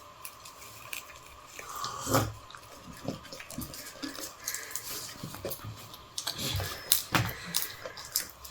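Scattered light knocks and clicks, with a few louder ones about two seconds in and again around six to seven seconds in.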